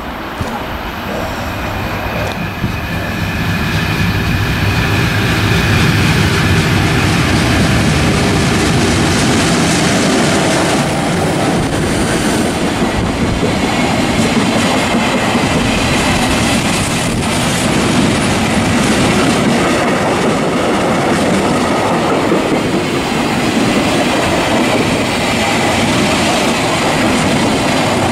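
A train passing close by on the rails, its wheels rumbling and clattering steadily, with a thin high wheel squeal in the first half. It builds over the first few seconds, then stays loud as the long train goes by.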